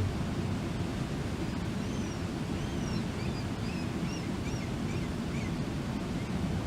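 Steady rush of a waterfall, a constant low roar of falling water. Faint, short high chirps from a small bird come about two seconds in and repeat for several seconds.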